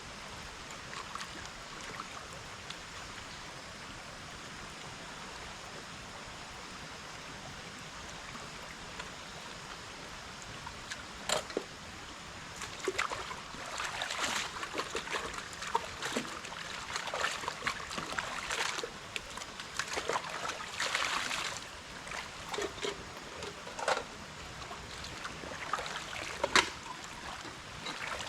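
Water trickling in a stream, with irregular splashes and knocks in the water starting about eleven seconds in.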